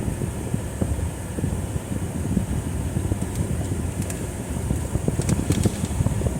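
Steady low rumble and hiss of a car heard from inside the cabin, with the air-conditioning blower running. A few faint light ticks come between about four and six seconds in.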